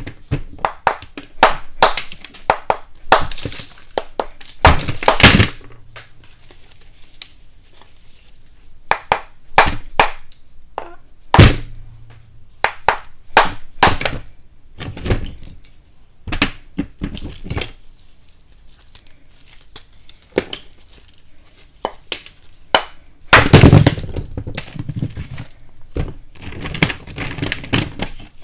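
Lumps of chalk being snapped and broken apart: a run of sharp, irregular cracks and snaps with crumbling, and longer crunching spells about five seconds in and near the end.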